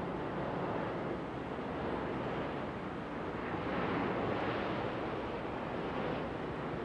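Jet airliner engines heard as a steady rushing noise that swells gently, as a plane takes off or lands.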